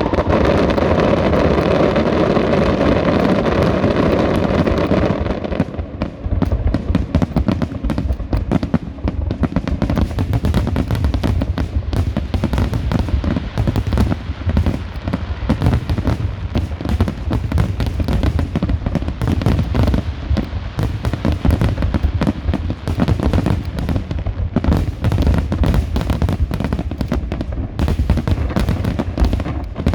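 Fireworks display going off in a dense, continuous barrage. The first five seconds are a steady rush, and then a rapid, unbroken run of bangs and crackling follows.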